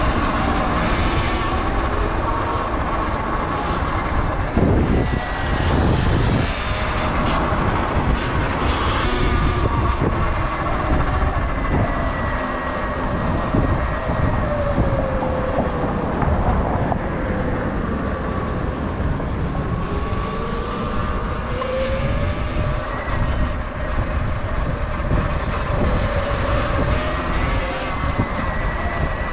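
Sur Ron electric dirt bike being ridden: a thin motor whine that rises and falls in pitch with speed, over a steady rumble of wind and tyre noise.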